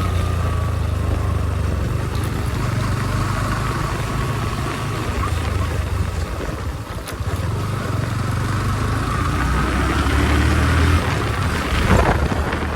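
Motorcycle engine running with a steady low rumble that eases off a little around the middle and picks up again towards the end.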